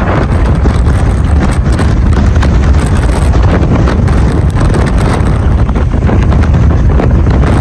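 Loud, steady buffeting of strong straight-line wind on the microphone, heavy in the low end: the gust front of a squall line (QLCS) passing, with winds likely over 70 mph.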